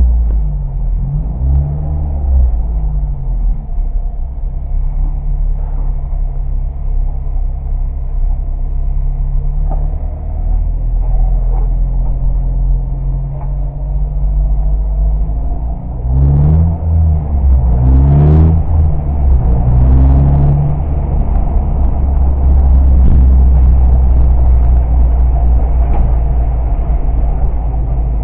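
Honda Civic's engine heard from inside its stripped cabin, running at low revs while the car moves slowly. The revs rise and fall briefly at the start, then rise and drop several times in quick succession a little past halfway, as it accelerates through the gears.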